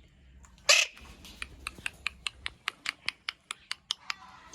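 Ringneck parakeet giving one loud, sharp, falling squawk, then a quick run of short clicking chirps, about five a second.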